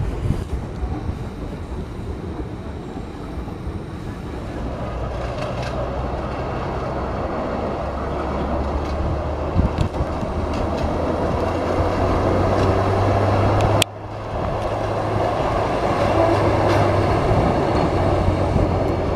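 A motor vehicle running along railway track: a steady engine drone under the rumble of wheels on the rails, growing louder. The sound breaks off sharply about 14 seconds in and picks up again at once.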